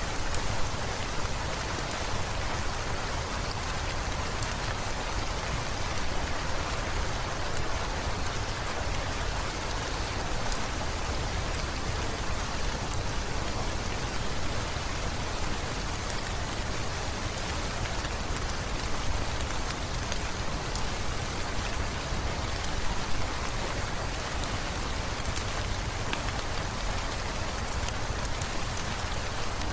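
Steady rain falling, an even hiss with a low rumble underneath and scattered sharp ticks.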